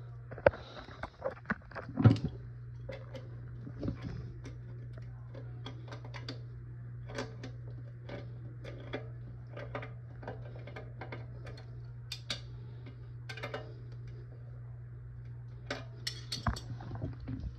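Scattered clinks, taps and knocks of hard objects being handled, irregular and a few a second at the busiest, over a steady low hum.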